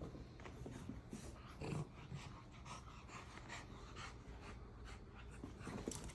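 French bulldog panting during play, with a string of short, soft irregular sounds and a louder one about two seconds in.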